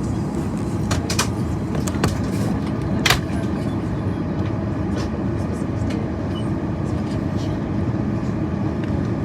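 Boeing 737 engines running at low power with a steady low rumble that neither rises nor falls, with a few sharp clicks in the first few seconds.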